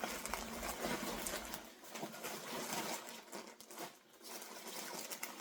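Plastic packaging rustling and crinkling in uneven bursts as items are handled and pulled from a mailer bag.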